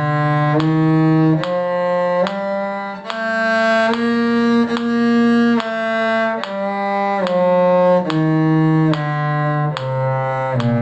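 Cello bowing the B-flat major one-octave scale, even notes of just under a second each, climbing to the top note and stepping back down to the low B-flat near the end.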